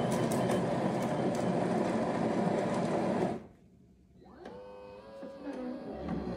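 Zulay Magia super-automatic espresso machine's built-in grinder running loudly for about three seconds, grinding whole beans for an espresso shot, then cutting off. After a brief pause a quieter whirring with a rising pitch starts up as the machine goes on to brew.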